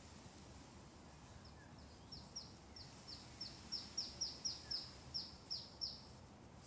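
A small bird singing a quick run of about fifteen short, high, downslurred notes that grow louder through the run, starting about a second and a half in and ending about six seconds in. A faint steady low background rumble lies under it.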